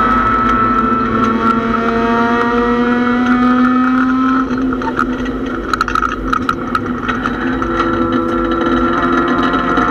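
Mazda MX-6 race car's engine heard from inside its stripped cabin, pulling on track with its pitch slowly climbing. About halfway through the note breaks up for a couple of seconds amid sharp rattles and clicks, then settles and climbs again.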